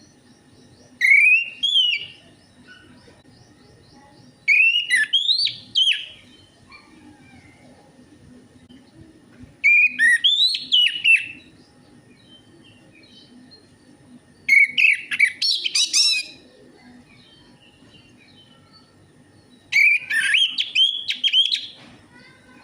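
Orange-headed thrush (anis merah) singing: five short phrases of varied whistled notes, each lasting a second or so, about every five seconds, over a faint steady low hum.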